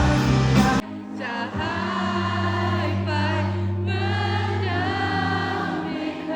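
A live band's song recorded from the crowd. The full band drops out abruptly about a second in, leaving a held, wavering vocal line over a sustained low note.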